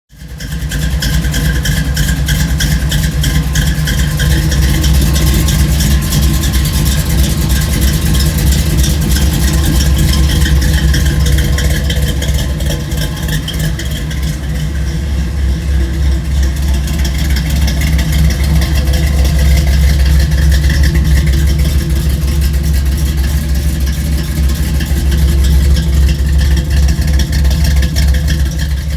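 Car engine running through its exhaust, a deep, steady sound that cuts in suddenly at the start and swells and eases slightly a few times.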